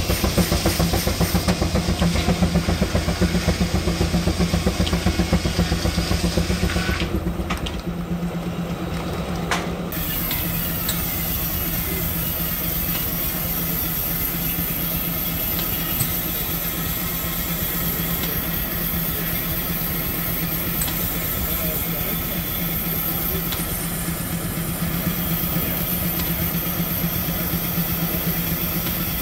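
Engine running steadily, with a rapid even pulsing beat for the first seven seconds or so, then a smoother, steadier hum.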